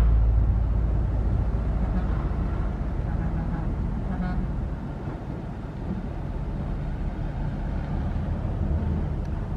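Heavy diesel engine of construction machinery running with a low rumble that eases off over the first few seconds and then holds steady.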